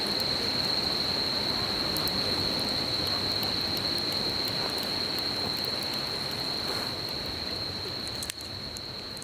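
Campfire crackling with small scattered pops over the steady rush of a flowing stream, and an insect's continuous high-pitched trill throughout. One sharper click near the end.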